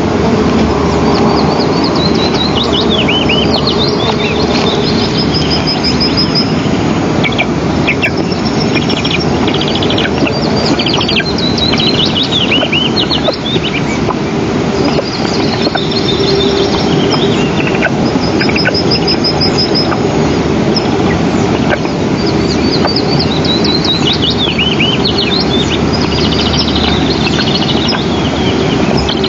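Birds calling and singing, with repeated high chirps, fast trills and falling whistles, over a steady rushing background noise with a faint hum.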